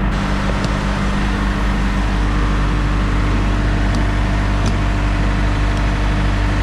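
Diesel truck engine idling: a steady low rumble with a constant hum, one tone of which drops out about two seconds in.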